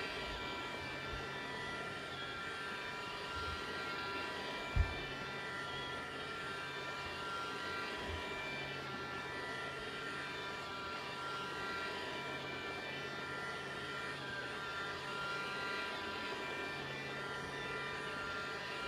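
Roomba robot vacuum running: its vacuum motor and brushes give a steady, many-pitched whine over a low hum, winding down at the very end. There is one sharp knock about five seconds in.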